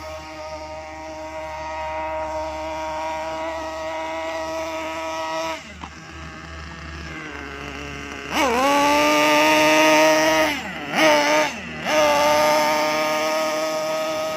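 The small engine of a Caster Racing RC buggy running at a steady pitch, which drops away about five and a half seconds in. It is revved up sharply about eight seconds in and held high, with two brief dips in throttle before settling back at high revs.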